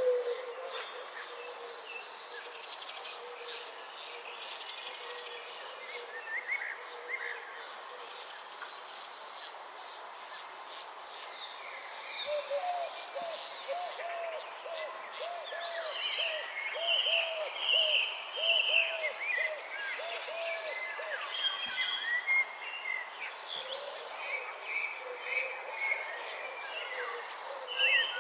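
Nature ambience of a steady high insect buzz, like crickets or cicadas, that stops about 8 seconds in and comes back near the end. Birds call throughout, with a low note repeated about twice a second in the middle and higher chirps over it.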